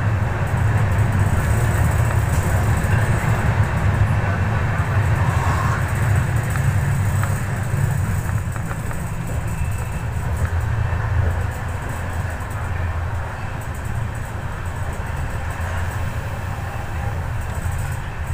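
Passenger train running at speed: a steady low rumble of the coach and wheels on the track, easing slightly in the second half.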